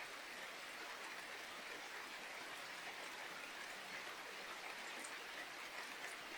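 Steady rain falling, an even patter of drops that does not change.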